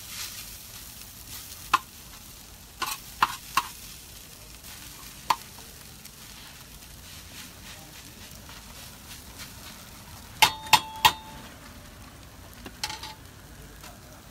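Hash browns with onions and peppers frying in a steady sizzle, with a metal utensil clanking against the cookware now and then: several sharp clanks in the first five seconds and a quick run of three ringing clangs about ten seconds in.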